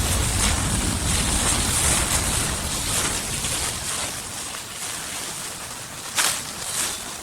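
Outdoor forest ambience: wind rumbling on the microphone over a steady rustling hiss. About six seconds in there is a sharp crackle, like dry fallen leaves crunched underfoot, followed by a few smaller rustles.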